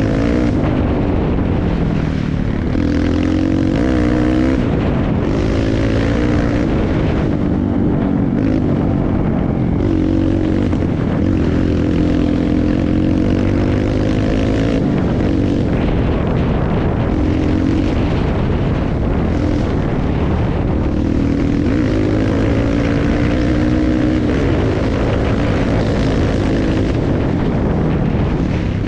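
Dirt bike engine being ridden, its pitch rising and falling again and again as the throttle is opened and closed, with heavy wind rush on the microphone.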